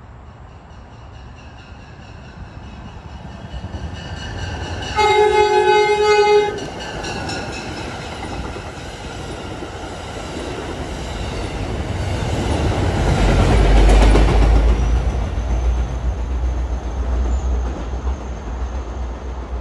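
MBTA commuter rail train passing: the locomotive's horn sounds one long blast about five seconds in, then the rumble and clickety-clack of the wheels and coaches builds, loudest about fourteen seconds in, and runs on as the cars go by, with a thin high whine in the last few seconds.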